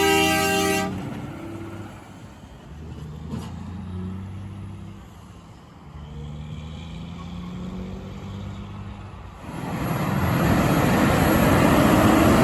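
A truck's air horn sounds and cuts off within the first second. Lower engine sound follows, and near the end a loud rushing noise builds as a truck passes close by.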